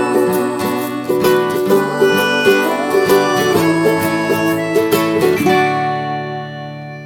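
Music on a plucked string instrument: quickly picked notes that stop about five and a half seconds in, leaving a last chord ringing and fading out.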